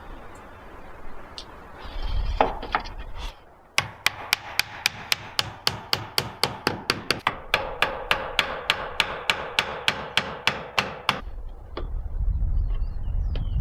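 A hammer striking rapidly and evenly, about three or four blows a second for some seven seconds, each blow ringing briefly. A few scattered knocks come before the run.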